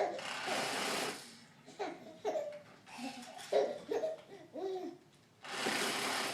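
A baby laughing in short chuckles and squeals, with a long breathy, hissing burst at the start and another near the end.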